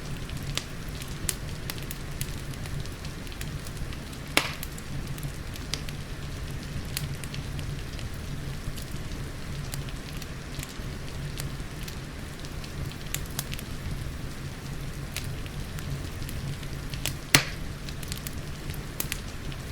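Wood fire crackling with frequent small snaps and two louder pops, one about four seconds in and one near the end, over a steady hiss of rain.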